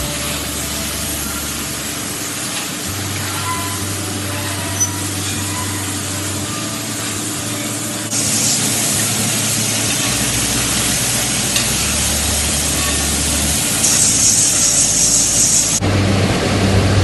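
Steady factory machinery noise: a low hum under a broad hiss, which changes abruptly about halfway through to a brighter hiss and again near the end to a heavier hum.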